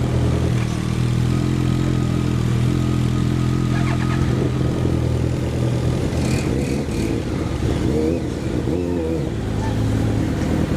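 Motorcycle engine running as it is ridden, steady for the first few seconds, then rising and falling in pitch with the throttle in the second half.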